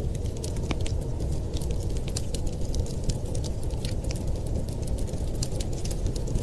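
Wood fire crackling: many small sharp pops and snaps at irregular moments over a steady low rumble.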